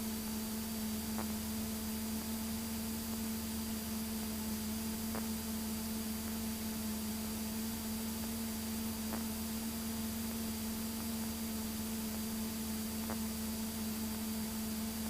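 Cessna 172 cockpit sound in flight: a steady hum with hiss, unchanging throughout, and faint ticks about every four seconds.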